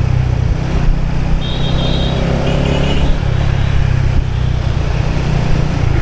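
Motorbike engine running steadily, heard from on the bike, with traffic noise around it. Two short bursts of high-pitched tones come through about one and a half and two and a half seconds in.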